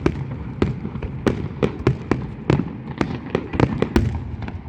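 Fireworks exploding in rapid, irregular succession, about three sharp bangs a second over a continuous low rumble of further bursts.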